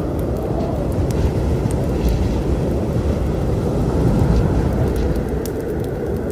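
Steady low storm rumble, swelling slightly about four seconds in, with sharp pops and crackles of a wood fire in a fireplace scattered over it.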